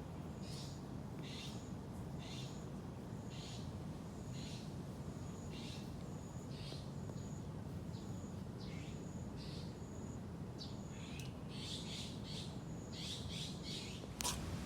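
High-pitched animal calls repeated about one and a half to two times a second, coming faster near the end, over a steady low hum. A sharp click sounds just before the end.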